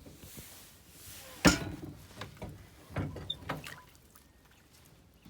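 A short hiss, then a sharp knock about a second and a half in, followed by a few lighter knocks and clunks.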